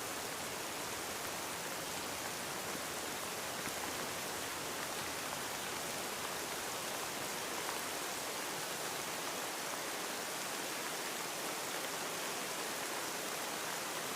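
Steady rain, an even hiss with no separate drops or breaking waves standing out.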